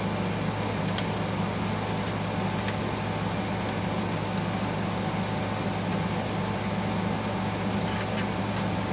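Steady mechanical hum, like a running fan, with a few faint clicks and a sharper double click about eight seconds in, as small screws and a screwdriver are handled on a Singer sewing machine.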